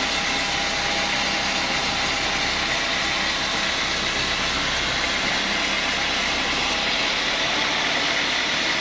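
Sawmill machinery running steadily, a continuous mechanical drone with a high hiss that drops away about seven seconds in.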